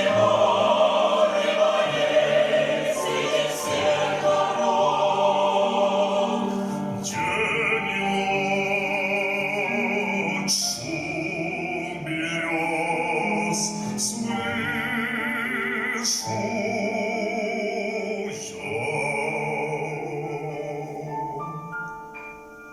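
A mixed choir singing a Russian song, then a male soloist singing in an operatic style, holding long notes with wide vibrato over the choir, with short breaths between phrases. Near the end the singing stops, and sustained instrumental chords fade out as the song ends.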